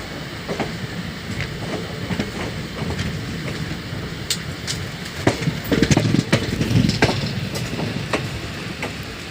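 Passenger train on the move, its wheels clattering and knocking over the rail joints with a steady rumble beneath, and a louder, heavier run of knocks a little past halfway.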